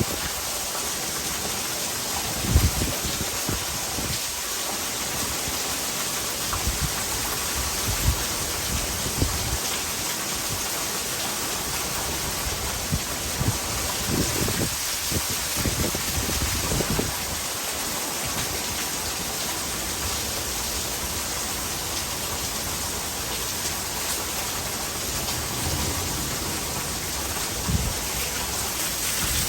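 Heavy rain pouring steadily, with water running off into a gutter; a dense even hiss broken now and then by short low thuds and splashes.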